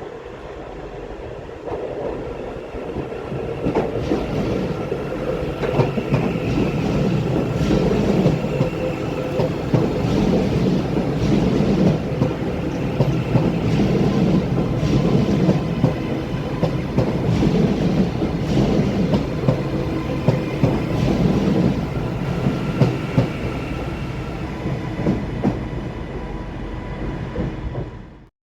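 A train rolling past at close range, its wheels clattering over rail joints in a steady run of clicks, with a faint whine over the rumble. The sound cuts off suddenly near the end.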